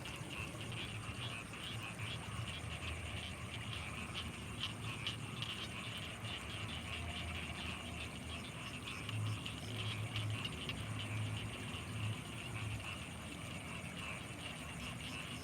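Night chorus of frogs and insects in rice fields: a dense, rapid trilling with a steady high-pitched tone above it, and a low pulsing for a few seconds past the middle.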